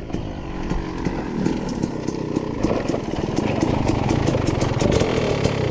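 Dirt bike engine running and growing gradually louder, with a steady, even pulse.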